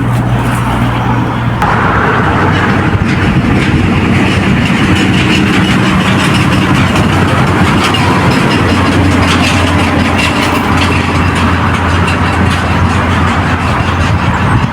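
A motor vehicle's engine running close by, a steady hum that drops in pitch about two seconds in and shifts again around the middle.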